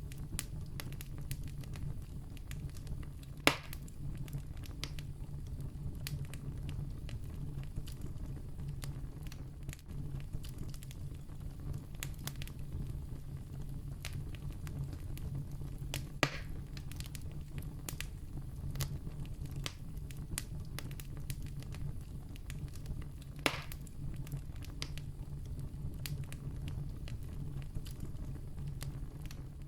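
Wood campfire burning steadily and crackling, with many small snaps over a low rumble of flames and three louder pops, at about three and a half, sixteen and twenty-three seconds in.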